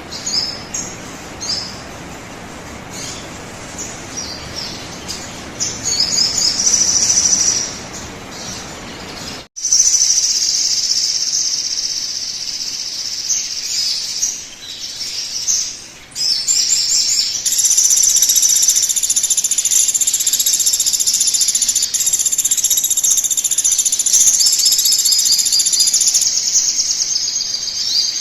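Sogon bird song from a lure recording: repeated short, high chirping phrases over background hiss, with abrupt cuts, then a long unbroken high trill through the second half.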